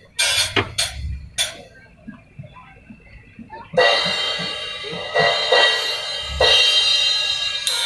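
Drum kit being sound-checked through a large PA. A few sharp single drum hits, a short lull, then about four seconds in a loud cymbal crash with further cymbal and drum hits ringing on over it.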